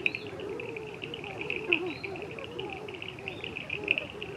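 A dense chorus of birds calling: many low, short calls overlapping one another over continuous high-pitched rapid chirping.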